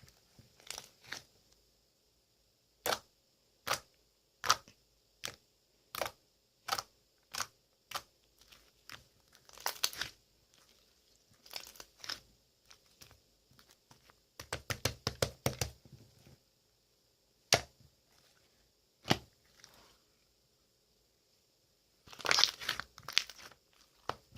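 Slime being squeezed and pressed by hand: a string of short sharp pops and clicks as air pockets in the slime burst, with a few longer stretches of crackling.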